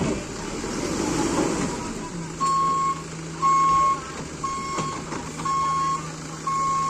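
A vehicle's reversing alarm beeping, one steady tone about once a second, starting about two seconds in and sounding five times, over a heavy vehicle's engine running with a low steady hum.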